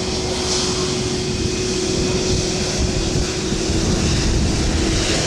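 Jet engines of a Delta Airbus A330-200, Pratt & Whitney PW4000 series, running at takeoff power on the departure roll, a steady loud jet noise with a held tone that slowly grows louder.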